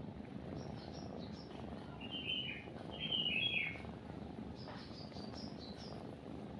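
Small birds chirping in short trills, loudest about two and three seconds in, over a steady low cat purr.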